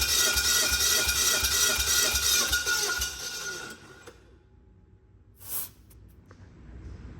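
Subaru FA20 2.0-litre flat-four being cranked on the starter for a compression test, with a steady starter whine and even compression pulses about three a second. The cranking stops after about three and a half seconds, and a short hiss comes about two seconds later.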